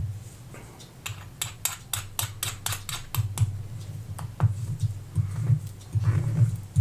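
Small sharp clicks while the diver's watch case is worked on and sealed up: a quick run of about a dozen, roughly four a second, then a few scattered ones, over a low steady hum.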